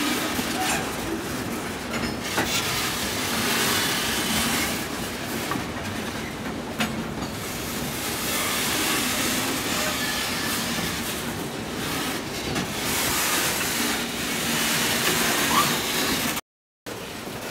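Loaded bauxite ore gondola wagons rolling past close by: a steady noise of steel wheels on the rails, with a few sharp knocks and a brief faint squeal. The sound drops out for a moment near the end.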